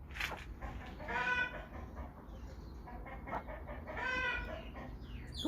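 Chickens calling: two drawn-out pitched calls, one about a second in and another about four seconds in, with a short sharp sound just after the start.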